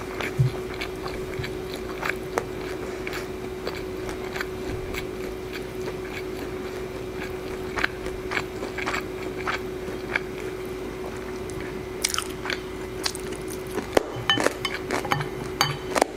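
Close-miked chewing and biting of food during a mukbang: scattered small, wet clicks and crunches that come thicker in the last few seconds.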